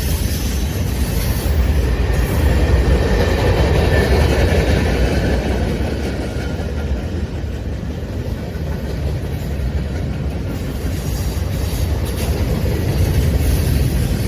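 A train rolling by: a loud, steady rumble of rail wheels and cars.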